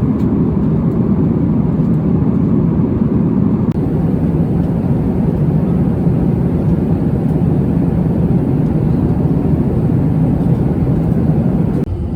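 Steady low rumble of airliner cabin noise, jet engines and airflow heard from inside the cabin in flight. The noise drops abruptly near the end.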